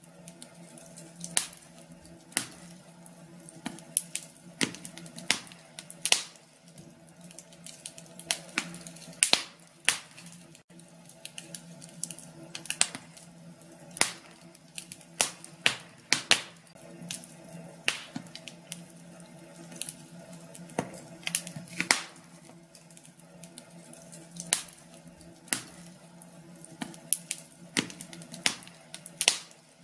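Wood fire crackling in a fireplace: irregular sharp pops and snaps, several a second, some much louder than others, over a steady low hum.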